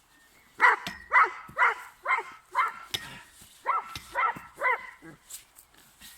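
A dog barking about eight times in quick succession, roughly two barks a second with a short break in the middle, each bark dropping in pitch.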